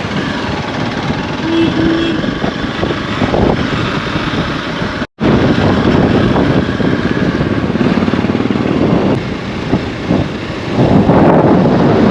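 Motorcycle running on the move, a steady dense engine-and-road noise that cuts out completely for a moment about five seconds in and comes back louder.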